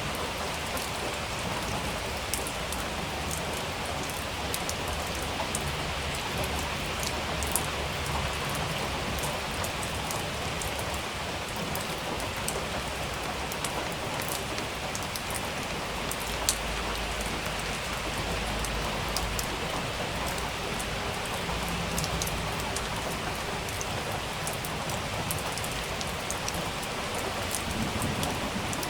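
Steady rain falling on a surface, with many single drops ticking sharply through the hiss.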